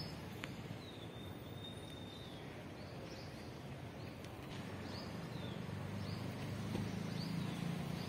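A bird calling outdoors: one thin held whistle, then several short falling chirps spaced roughly a second apart, over a steady low rumble of background noise.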